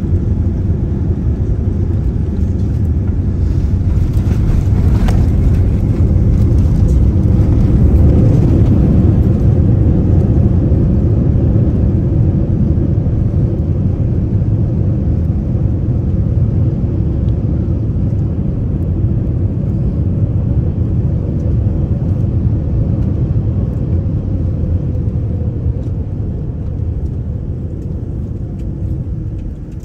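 Jet airliner heard from inside the cabin on the landing roll: a loud low rumble that swells over the first several seconds and then gradually eases as the plane slows, with a faint falling tone near the end as the engines wind down.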